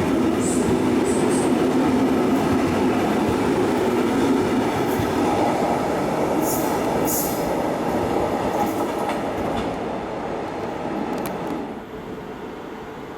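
SNCB Class AM96 electric multiple unit train running on the rails with a steady rumble and clatter, with a couple of brief high squeals about midway. The sound fades away near the end as the train moves off.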